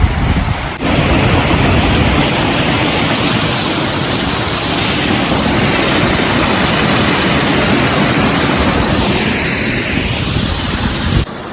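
Waterfall rushing: a steady, loud noise of falling water.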